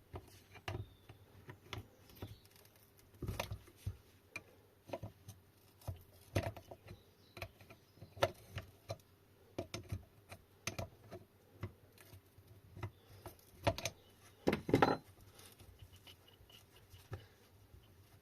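Hand tools clicking, tapping and scraping against small metal parts as a fiddly fitting on the e-bike hub motor is worked loose, in irregular clicks with a louder clatter about fifteen seconds in.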